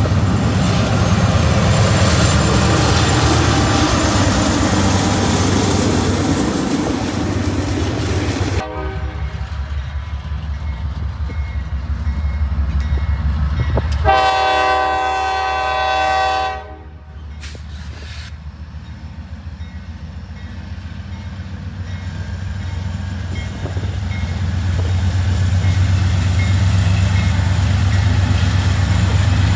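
A passing train with diesel locomotive engines rumbling low and steady, over rail noise. It sounds one multi-tone air horn blast of about two and a half seconds past the middle. The sound changes abruptly twice, at cuts in the footage.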